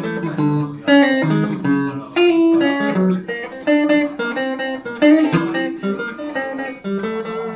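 Van Zandt Telecaster electric guitar played through a Roland JC-120 amp: a solo instrumental passage of plucked chords and single notes in quick succession.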